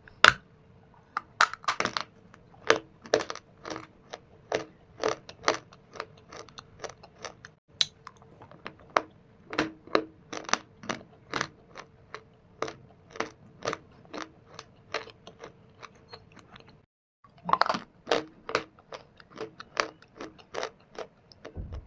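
Close-up chewing of crunchy shale stone and clay pieces: sharp, crisp crunches at roughly two a second. A short pause comes about three-quarters of the way through, then a louder burst of crunching as a fresh piece is bitten.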